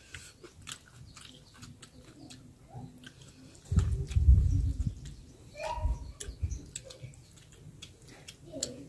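Eating by hand from steel plates: chewing and wet mouth clicks with fingers working through rice, plus a loud low rumble about four seconds in and a shorter one near six seconds.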